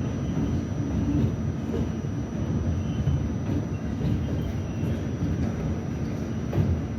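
R68 subway train running on the track: a steady low rumble, with one brief knock about six and a half seconds in.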